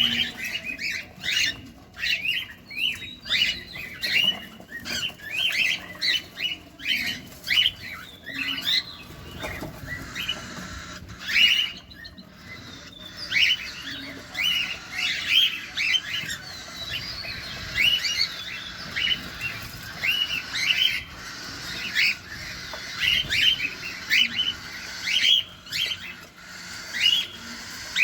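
Cockatiels chirping in quick, repeated short calls, several a second, mixed with sharp clicks.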